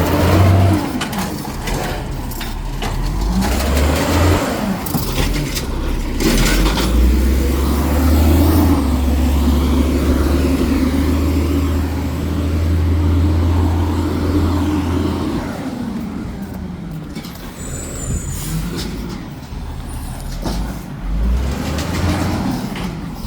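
Garbage truck's diesel engine revving hard, held high for about eight seconds in the middle before dropping back, with scattered clanks and knocks around it.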